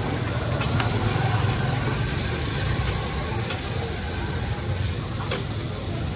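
Beef tikki kababs sizzling in shallow oil on a large flat metal griddle, with a metal spatula scraping and clicking against the griddle now and then as they are turned, over a low steady hum.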